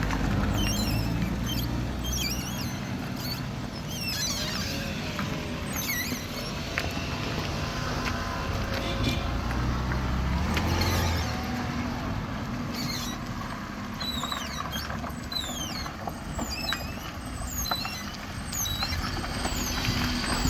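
A motor vehicle running nearby, its low rumble swelling around ten to eleven seconds in, with many short high falling chirps or squeaks scattered throughout.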